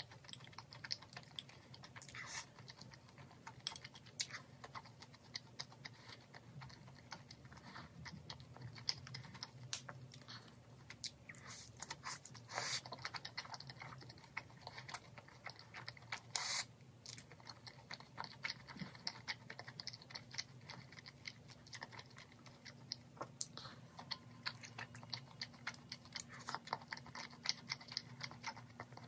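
Close-miked chewing of crispy fried chicken: a dense run of small crackling crunches, with a few louder crunches, over a faint low hum.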